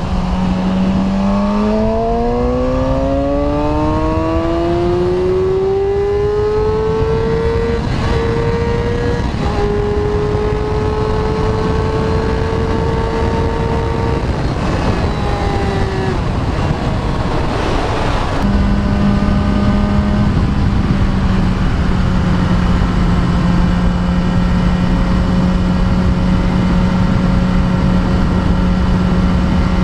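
Suzuki GSX-R sportbike's inline-four engine under way, its note climbing steadily for several seconds, holding, dropping about halfway through, then running at a steady lower pitch. Wind rushes over the microphone throughout.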